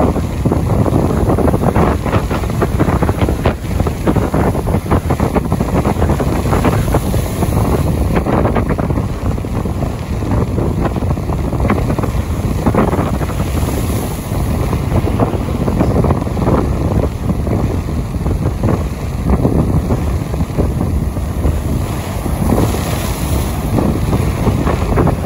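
Strong wind buffeting the microphone in a rainstorm, a loud continuous rumble shot through with fine crackling.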